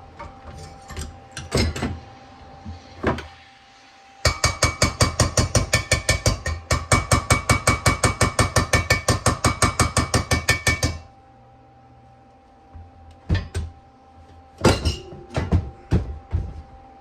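A hammer striking steel: a few scattered knocks, then a fast, even run of ringing blows, about six a second, for some seven seconds, then scattered knocks again.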